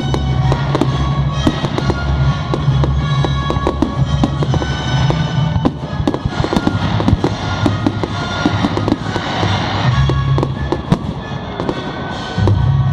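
Fireworks display: a dense run of bangs and crackling bursts, heard over loud music with a heavy pulsing bass.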